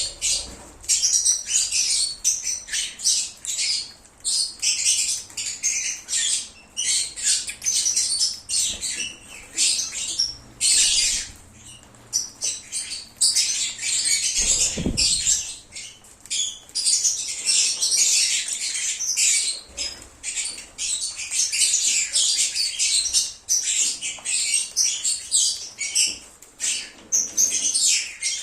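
A flock of lovebirds chirping and squawking in constant, overlapping high-pitched chatter, with a brief low thud about halfway.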